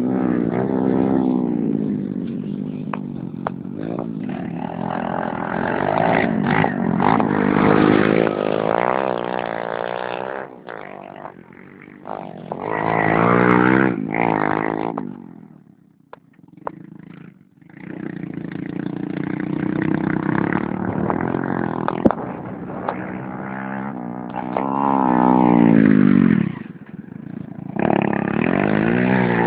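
Racing motorcycle engines revving, their pitch climbing and falling again and again through the gears, with a brief lull about halfway through.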